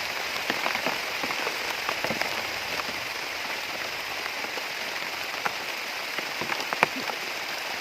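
Steady rain falling, a dense hiss with many scattered drop ticks.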